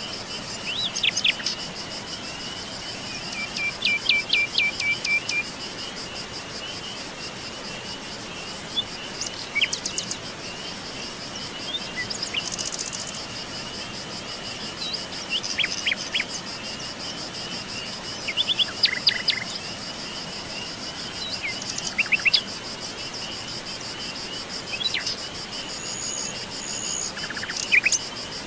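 Songbirds chirping and calling in short phrases every few seconds, including a quick trill, over a steady high-pitched drone of insects such as crickets.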